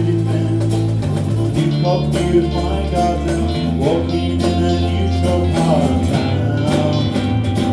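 Live rock band playing an instrumental passage: electric guitar and bass guitar over drums, with the bass moving to a new note every second or two.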